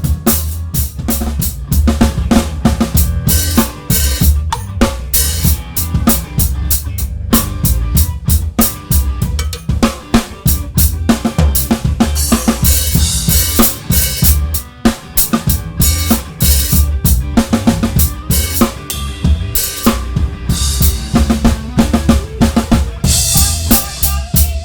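A live band playing, with the drum kit close and loudest: kick drum, snare and cymbals in a steady groove, over bass guitar and guitars.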